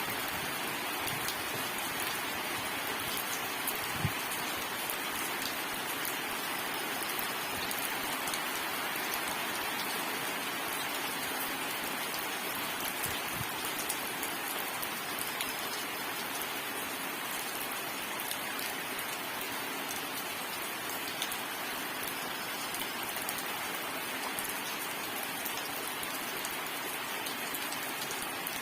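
Steady rain falling and pattering on surfaces, a dense even hiss of many drops, with now and then a single louder drop, most plainly about four seconds in.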